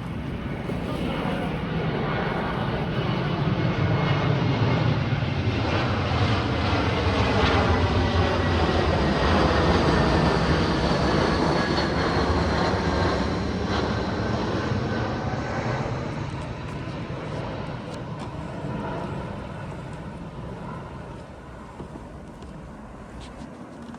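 Airplane flying over: its engine noise builds for several seconds, is loudest around ten seconds in, then slowly fades away.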